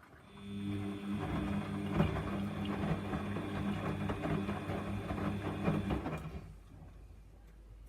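Samsung washing machine running a 95°C wash: its motor hums steadily with small knocks from the load, then stops about six seconds in, leaving a faint low rumble.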